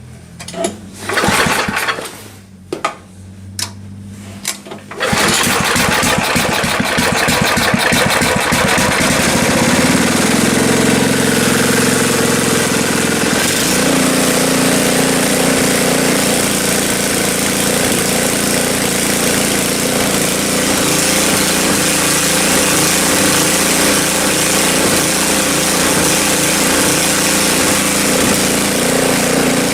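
Snowblower engine being pull-started: a few short recoil pulls, then it catches about five seconds in and runs steadily. It is reluctant to run with the choke off, which the owner puts down to stale gas.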